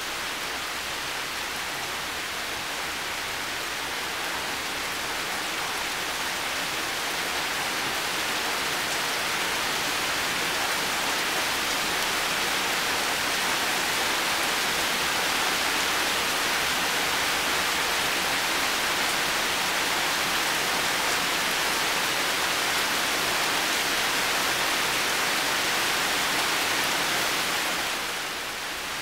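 Heavy rain falling steadily, a dense even hiss with no separate drops standing out. It swells slowly over the first several seconds and eases off a little near the end.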